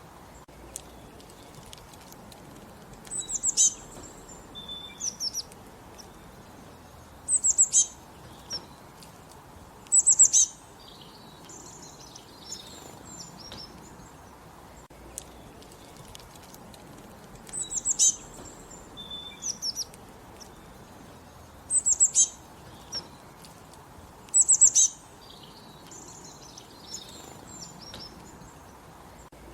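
Songbirds singing and chirping in short, high-pitched phrases of quick falling notes, over a steady background hiss. The same sequence of phrases comes round twice, about fifteen seconds apart, as in a looped recording.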